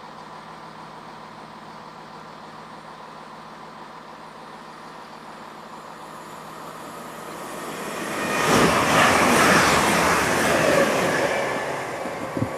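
A train runs through the station at speed without stopping: a rush of wheel and rail noise swells from about seven seconds in, is loudest for a few seconds, then fades. Under it runs a steady electrical buzz from a faulty microphone.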